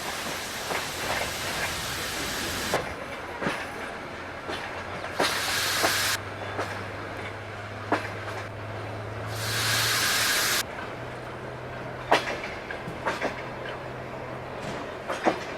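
Train at a station: hissing that comes in several bursts, scattered sharp clicks and knocks, and a low steady hum from about five seconds in.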